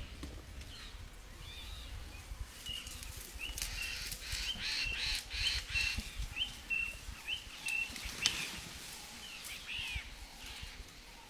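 A bird calling a run of short, high, repeated notes, about two a second, for several seconds mid-way, amid a few short sharp noisy bursts and an outdoor background.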